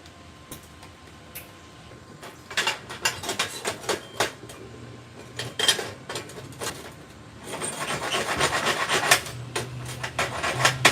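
Slag being scraped and brushed off a freshly run self-shielded flux-core weld bead: irregular sharp scrapes at first, then a denser run of scratchy brushing from about halfway through.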